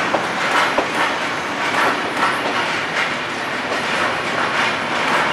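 Freight train's wagons rolling past close by as the train pulls out: a steady rumble of steel wheels on rail with irregular metallic clanks and clicks.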